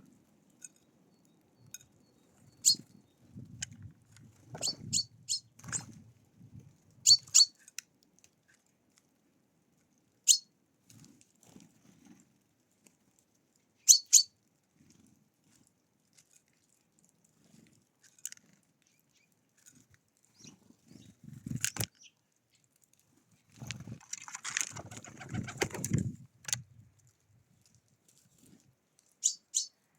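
Wild birds at a feeder: short, high chirps every few seconds over low rustling and tapping. About three-quarters of the way through comes a flurry of wingbeats.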